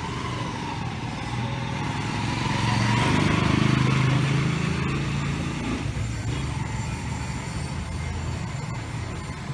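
Road traffic: a motor vehicle's engine passes close by, growing louder to a peak about three to four seconds in and then fading, over a steady low rumble of traffic.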